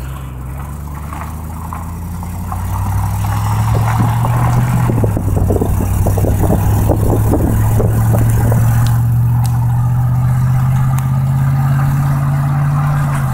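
Engine and road noise of a moving vehicle at speed: a steady engine drone that grows louder a few seconds in, climbs slowly in pitch as it accelerates, and drops suddenly at the end.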